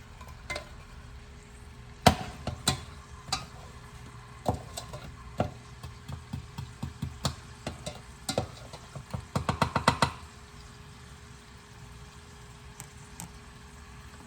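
A cooking utensil knocking and tapping against a pan while food is stirred, with a loud knock about two seconds in and a quick run of taps near ten seconds, over a low steady background.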